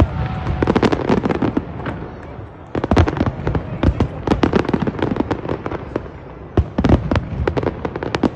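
Fireworks going off in quick, irregular bangs and crackles, thinning briefly a little after two seconds in and again around six seconds.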